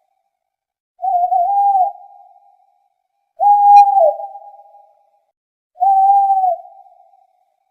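Owl hooting: three clear whistled hoots, each under a second, wavering slightly in pitch and repeating about every two and a half seconds, each trailing off in an echo.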